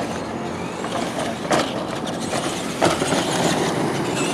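Radio-controlled monster trucks running on a dirt track, a steady noisy rumble, with two sharp knocks about a second and a half and about three seconds in.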